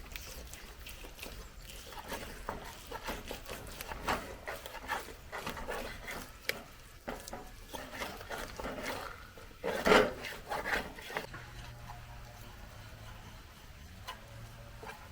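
Rustling and small knocks of things being handled, with one louder knock about ten seconds in, then it goes quieter over a faint steady low hum.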